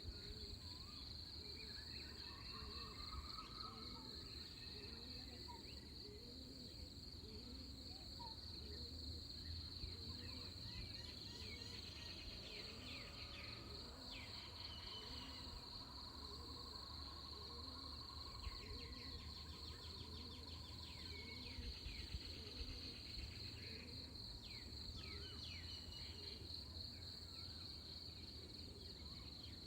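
Faint, continuous high-pitched trilling of insects such as crickets, steady throughout, with scattered short bird calls over it, busiest in the middle and toward the end.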